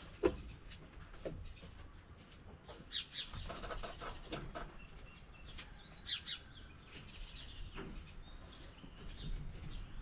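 Faint, scattered bird chirps, with brief rustling of hay being gathered a few seconds in.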